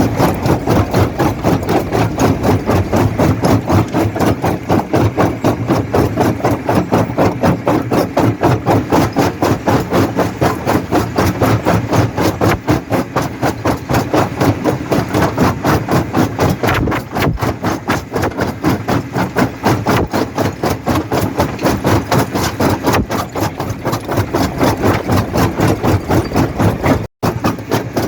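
Jaw rock crusher running and crushing stone: a steady, rapid rhythmic pulsing of about four to five beats a second, with rattling and knocking of rock in the jaws. The sound cuts out for an instant near the end.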